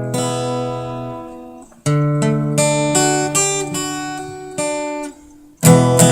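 Acoustic guitar playing a song's introduction: a chord left to ring and fade, then a fresh strum with single notes picked over it, and louder strumming coming back in near the end.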